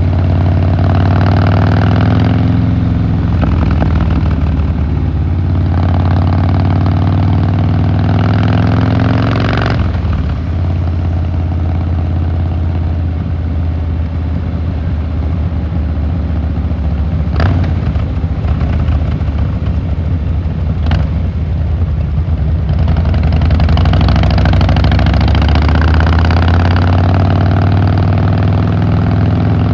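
Harley-Davidson Fat Boy Lo's air-cooled V-twin exhaust while riding, pulling up through the revs twice in the first ten seconds, easing off to a lower steady run with two brief clicks, then building again toward the end.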